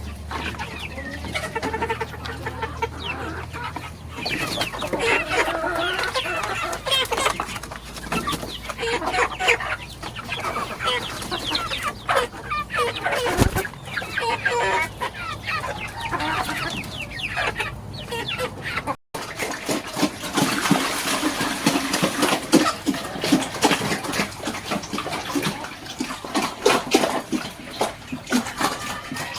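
A flock of chickens clucking, many birds calling over one another, with a momentary dropout about two-thirds of the way through.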